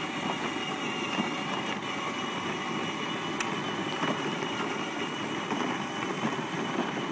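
Pickup truck engine running steadily with a constant low rumble as it drives slowly, with a faint steady whine above it.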